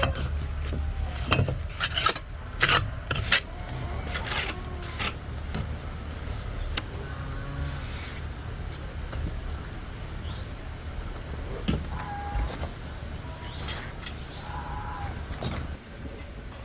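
Several sharp knocks in the first five seconds and a few more later, over a steady low hum, with scattered farm animal calls.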